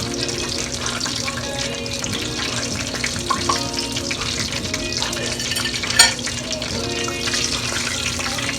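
Chicken frying in hot oil, a steady sizzle, with music playing in the background and a sharp click about six seconds in.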